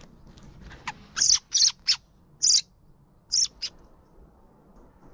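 A bird calling: a run of about seven short, sharp, high chirps within the first four seconds.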